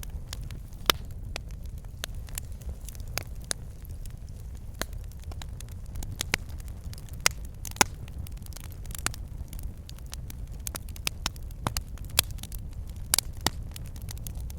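Wood fire burning in a fireplace: logs crackling and popping irregularly over a steady low rumble of the flames, with a few louder pops.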